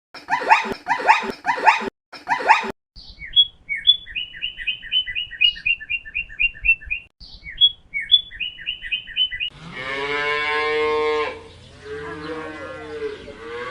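A dog barks about four times, then a small bird gives a rapid run of high, repeated chirps. About ten seconds in, a cow moos with one long call, followed by shorter moos.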